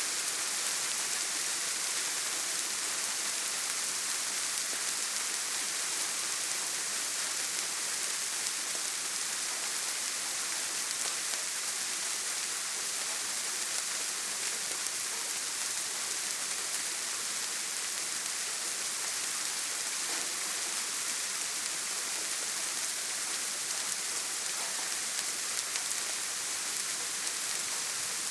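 Steady rain falling: an even, unbroken hiss that is strongest in the high end, with no thunder.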